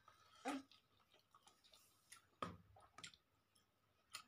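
Faint wet mouth sounds of someone chewing mutton fry: a handful of short separate smacks and clicks over near silence.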